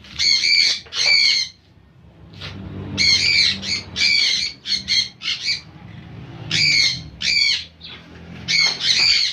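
Small caged parrots giving repeated short, harsh, loud squawks in quick clusters.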